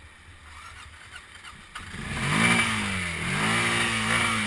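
Small off-road vehicle engine revved up twice, the pitch rising and falling each time, after a low idle in the first couple of seconds.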